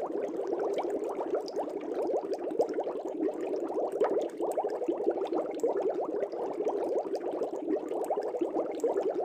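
Aquarium air bubbles rising through the water, a steady dense burble of many small bubbles.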